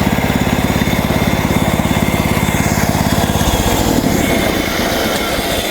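MechMaxx SM32 band sawmill running: its engine drives the blade through a cedar log with a fast, even beat. About three and a half seconds in the beat changes and the sound eases slightly.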